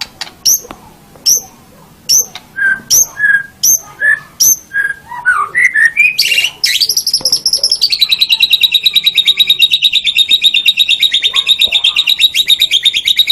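White-rumped shama (murai batu) singing: a string of separate sharp notes about one a second, quickening into rising notes, then a long, fast, even trill from about eight seconds in.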